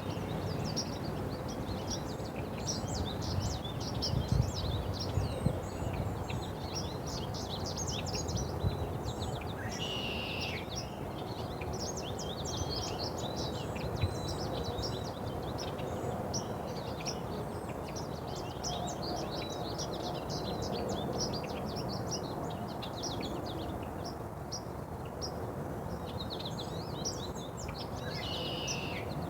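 Small birds chirping and twittering almost without pause, with a louder falling call three times: at the start, about ten seconds in and near the end. Under it runs steady low background noise, with a few knocks about four to six seconds in.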